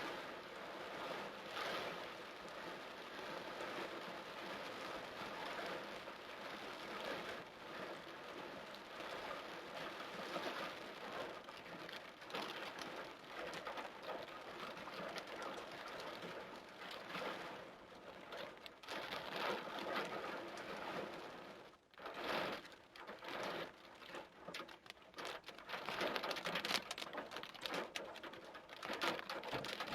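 Torrential rain pouring down and drumming on surfaces in a dense, steady hiss. About two-thirds of the way through, the sound drops out briefly twice, then comes back in uneven surges.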